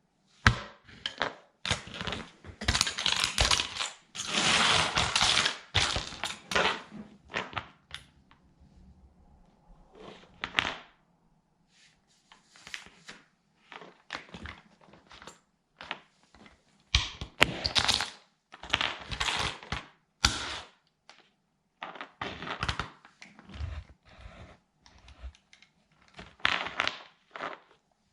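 Plastic toy military truck being crushed under a sandal, cracking and snapping in repeated bursts of crackles and clicks with short pauses between. The loudest, densest crunching comes in the first few seconds and again past the middle.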